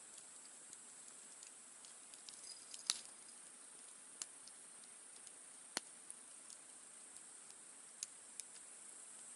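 Wood campfire crackling faintly, with scattered sharp pops and snaps from the burning wood, the loudest just before three seconds and near six seconds, over a steady high hiss.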